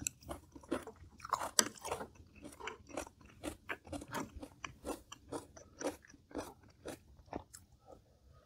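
A person chewing crisp food with the mouth close to the microphone: steady crunching, about two crunches a second, easing off near the end.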